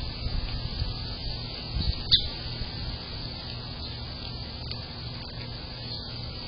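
Outdoor ambience with a few faint, short bird chirps over a steady low hum. There is one sharp click about two seconds in.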